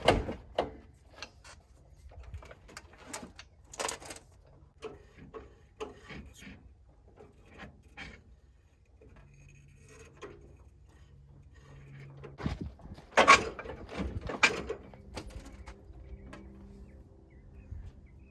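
Scattered clicks and knocks of hand tools and parts being handled during a transmission installation, with a louder clatter about two-thirds of the way through and a faint steady hum from partway in.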